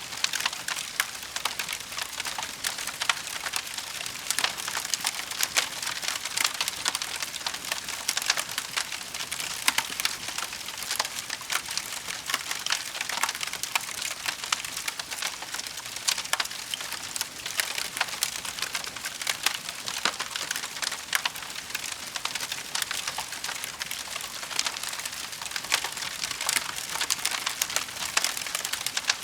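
Wood fire burning, with a steady hiss and a dense run of small pops and crackles.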